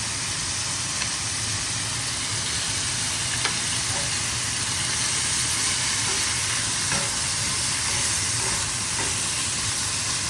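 Steak tips and garlic sizzling in butter in a hot cast iron pan: a steady frying hiss with a few faint clicks.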